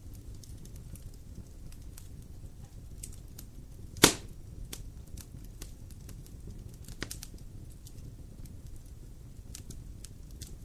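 Wood fire crackling over a low steady rumble, with scattered small snaps and one loud sharp pop about four seconds in, and a lesser pop near seven seconds.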